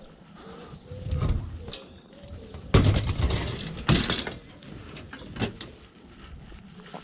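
A metal ironing board clattering as it is handled, with a smaller knock about a second in and two loud clanks around three and four seconds in.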